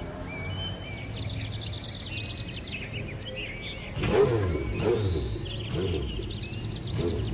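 Birds chirping over a steady low engine hum, then about four seconds in a car engine starts revving repeatedly, louder, each rev rising and falling in pitch.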